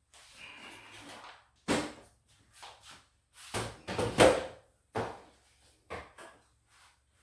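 Irregular knocks and short clatters of wooden closet organizer parts being handled and bumped, loudest about four seconds in.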